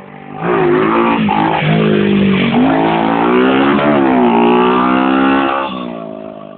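Motocross bike engine revving hard close by, its pitch rising and dropping several times, then fading away near the end.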